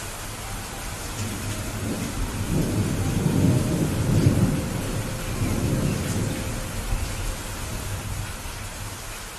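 Steady rain with a low, rolling rumble of thunder that builds about two seconds in, peaks, and slowly fades away.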